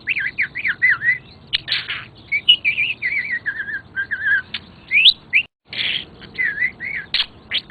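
Pet budgie chattering and warbling: a continuous run of quick rising-and-falling chirps mixed with short sharp clicky notes. The sound cuts out briefly about five and a half seconds in.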